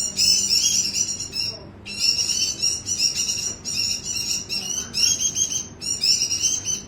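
White-eye singing a fast, rambling warble in loud phrases of one to two seconds, broken by short pauses. This is the vigorous, continuous 'gacor' song that keepers play as a training track.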